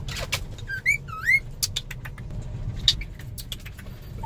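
Pet cockatiel giving a few short, rising whistled chirps about a second in, with scattered light clicks and taps over a steady low rumble.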